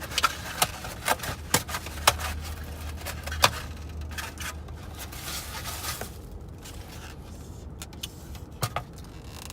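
Close-up eating of crispy fried chicken wings: a quick run of sharp crunches and clicks over the first few seconds, then a couple more near the end, over a low rumble that fades about six seconds in.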